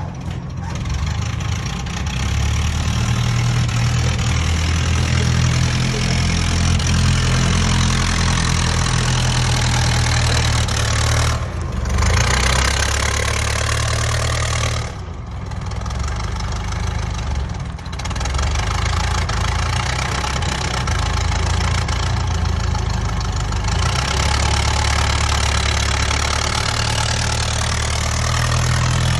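A large engine running, its speed and load shifting, with brief dips in level about 11, 15 and 18 seconds in.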